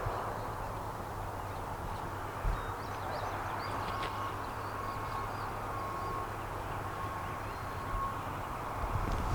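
Steady outdoor background noise, a low rumble and hiss, with faint high bird calls in the middle and a short note repeating evenly through the second half.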